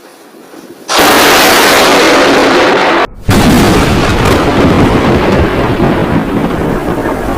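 Close lightning strike: about a second in, a sudden, very loud crack of thunder that goes straight into a loud, sustained rumble. The sound drops out briefly about three seconds in, then the loud rumble carries on.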